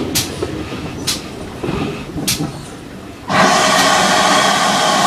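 A train carriage running along with a low rumble and a few sharp wheel clicks over rail joints, then about three seconds in a steam locomotive's whistle starts suddenly and sounds loud and steady, still going at the end.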